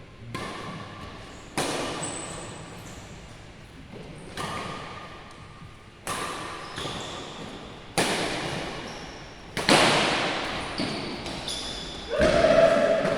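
Badminton rally: rackets striking a shuttlecock, sharp cracks about every one and a half to two seconds, each echoing in a large sports hall. A brief loud pitched sound comes near the end.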